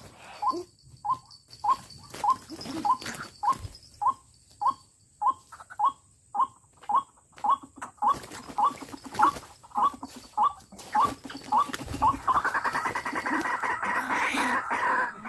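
White-breasted waterhen calling: a steady series of short, rising notes about three a second. About twelve seconds in, it breaks into a louder, harsher, grating chorus.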